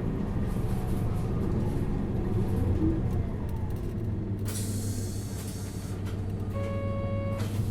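Isuzu Erga LV290N1 city bus heard from inside, its four-cylinder diesel running and then settling to a steady idle about halfway through. A long hiss of compressed air follows, and near the end a steady electronic beep sounds for under a second.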